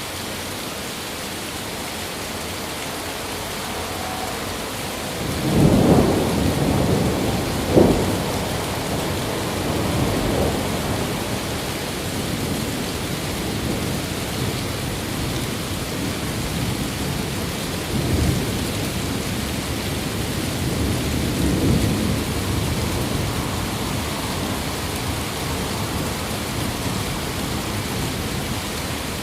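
Steady rain with a thunderstorm: a sharp thunderclap and rumble about five seconds in, peaking with a second crack a couple of seconds later, then fainter rolls of thunder later on.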